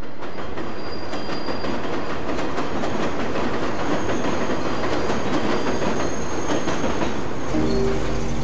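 Elevated train passing: a dense, steady clatter of wheels on track with thin, high squeals. About seven and a half seconds in it gives way to the deep, steady rumble of a Shelby GT500's V8 idling.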